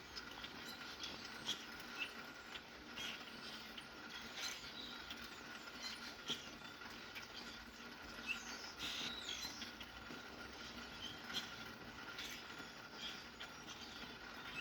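Steady rain with sharp drips, and small birds giving short, scattered chirps throughout.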